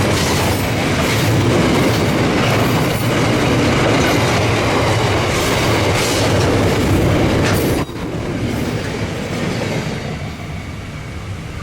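Freight train wagons rolling past, their wheels clicking over the rail joints. About eight seconds in the sound drops sharply as the end of the train goes by, leaving a fading rumble.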